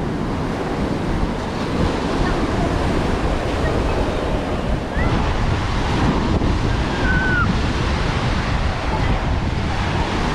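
Ocean surf washing onto a beach, with wind buffeting the microphone. Two faint short chirps sound briefly about halfway through.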